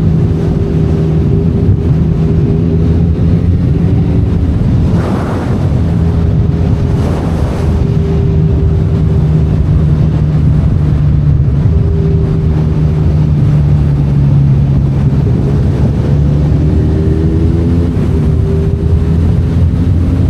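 Benelli Leoncino 500 Trail's 500 cc parallel-twin engine running at fairly steady revs. The engine note dips briefly around five and seven seconds in. Wind rushes over the microphone throughout.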